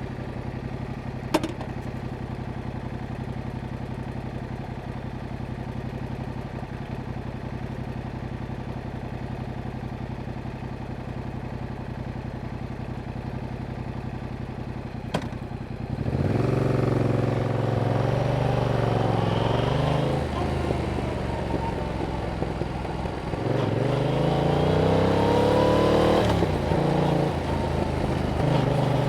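2021 Yamaha MT-07's parallel-twin engine on its stock exhaust, idling steadily with two sharp clicks, about a second in and about halfway through. It then pulls away louder, revving up twice and dropping back in pitch at each gear change.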